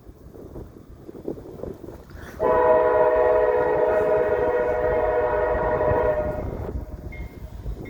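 Freight locomotive air horn sounding one long blast, starting suddenly about two and a half seconds in and holding for about four seconds before it fades, with gusty wind on the microphone before it.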